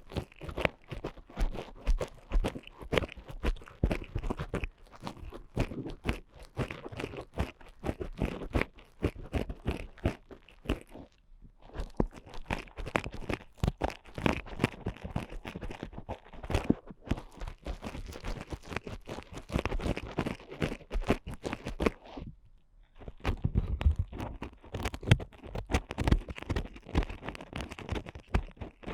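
Ear picks scratching and scraping close against a binaural microphone's ear, a dense run of fast crunchy scratches, with short breaks about 11 and 22 seconds in.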